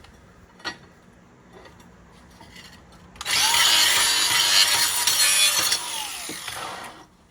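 Electric handheld grinder grinding a spot on a steel lawnmower mulching blade: about three seconds in the motor spins up and grinds loudly for about three seconds, then its whine winds down and stops.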